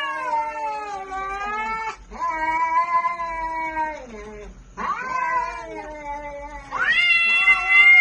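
Domestic cat yowling: a run of long drawn-out calls of about two seconds each, one after another with short breaks, the last one the loudest.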